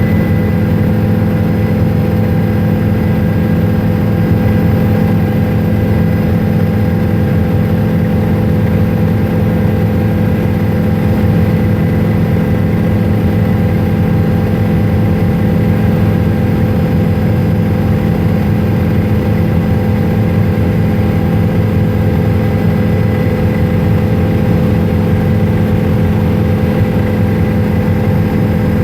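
Helicopter in flight heard from aboard: a steady, loud drone of engine and rotor with a few steady whining tones above it.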